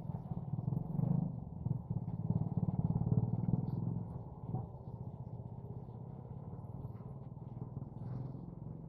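A motor vehicle's engine running close by, loudest for the first few seconds and then steadier and a little quieter.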